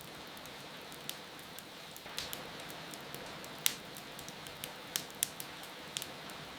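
Wood fire crackling, with sharp irregular pops, the loudest about three and a half seconds in, over a steady hiss of rain.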